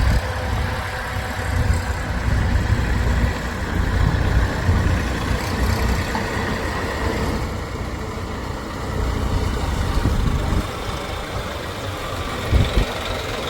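A heavy machine's diesel engine running steadily, with a low rumble.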